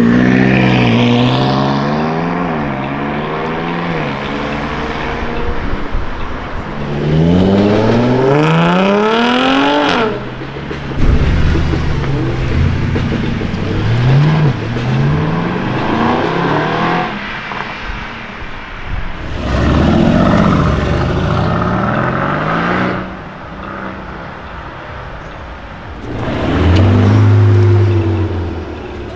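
Supercars accelerating away one after another, their engines revving up hard with rising pitch and clipped upshifts. There are several separate pulls, the strongest a long rising rev about a third of the way in that cuts off sharply.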